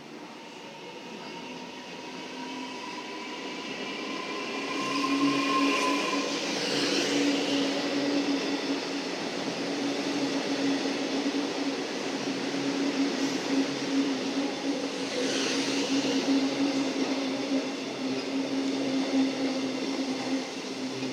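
Melbourne suburban electric train running express through a station without stopping. It grows louder over the first five seconds as it approaches, then passes with a steady motor hum and rolling wheel noise, which swells twice.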